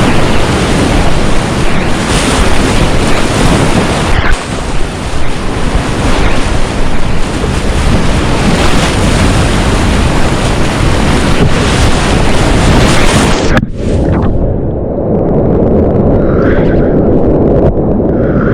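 Whitewater rapids rushing loudly, with water splashing against the microphone. About 14 s in the sound turns suddenly muffled and dull, the hiss of the water dropping away and leaving a low rush.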